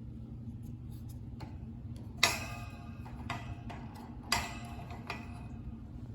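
Fan blade nuts being handled and set down on a hard surface: two sharp clacks with a brief ring about two and four seconds in, with lighter clicks between, over a steady low room hum.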